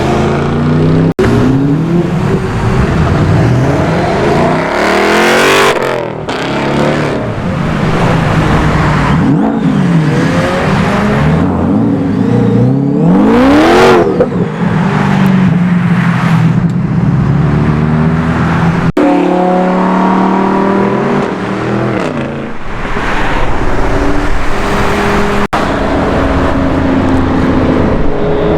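High-performance car engines revving and accelerating hard past, their pitch climbing and dropping with each throttle blip and gear change. The loudest rises sharply as a car goes by about halfway through.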